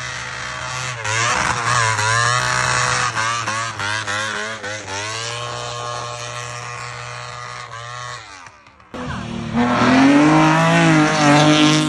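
Hillclimb race car engines at full throttle: the first revs up and drops back again and again through quick gear changes for about eight seconds, then after a brief dip a second, louder car accelerates hard with its pitch climbing.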